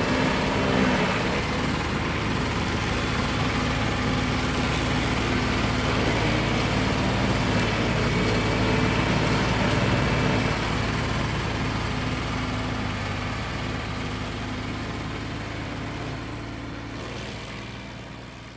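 A machine's engine running steadily, fading away over the last several seconds.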